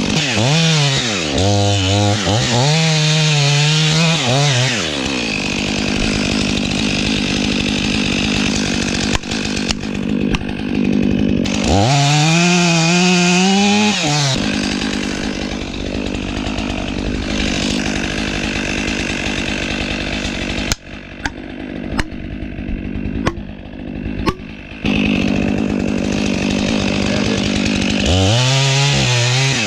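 Stihl 500i fuel-injected two-stroke chainsaw running in a felling cut, its engine pitch sagging and recovering several times as the bar loads in the wood. A series of sharp knocks or cracks comes through past the middle.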